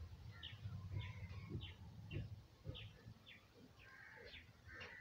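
Faint birds chirping: a string of short, high, falling chirps about twice a second, with a brief trill near the end.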